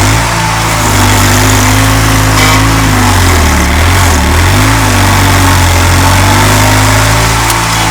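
A 27-horsepower stump grinder's engine running hard and steady, with a scraping noise from the cutting wheel. A little before halfway through, the engine pitch dips and recovers as the cutting wheel takes load in the stump.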